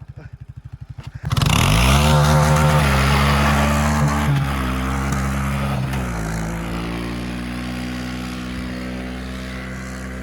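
A vehicle engine putters at low revs, then about a second in it suddenly revs up hard and holds at high revs, its pitch stepping down around six seconds and easing off slowly after that.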